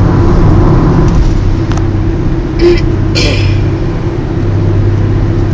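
Car running down the road, heard from inside the cabin: a steady engine and tyre drone, with two short hisses a little under halfway through.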